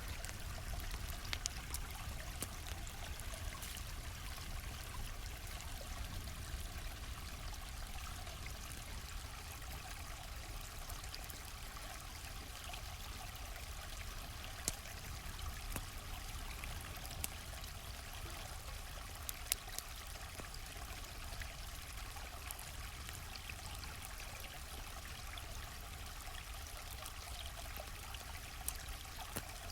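Steady flowing stream, with a few sharp pops from a crackling campfire scattered through it.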